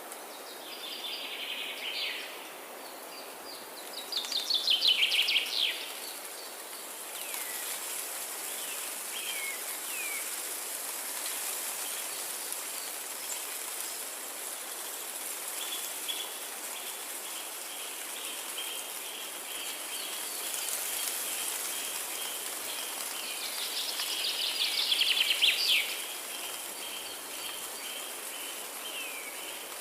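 Forest ambience: a songbird sings rapid trilled phrases, loudest about four seconds in and again near the end, with short chirps between and a faint fast repeated high note through the second half, over a steady hiss like light rain.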